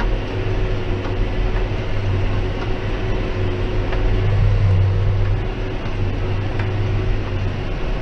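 John Deere 6190R tractor's six-cylinder diesel engine running steadily under load while pulling a Claas 3300 square baler in straw, heard from inside the cab. A deep, even hum is joined by faint regular clicks from the machinery. The tractor is in the middle of burning off its particulate filter, which takes a bit of extra power from it.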